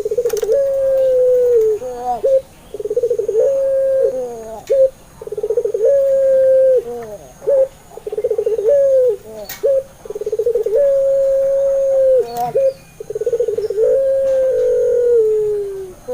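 Puter pelung, a long-voiced ringneck dove variety, cooing over and over. Each call opens with a fast rolling, pulsing phrase and ends in a long drawn-out coo that sags a little in pitch at its close, about every three to four seconds.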